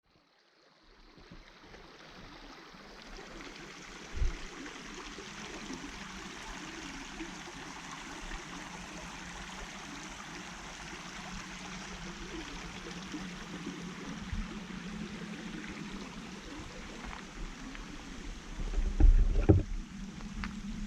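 Steady rushing outdoor noise, like running water or wind in trees, that fades in over the first few seconds. A single thump comes about four seconds in, and a cluster of louder thumps comes near the end.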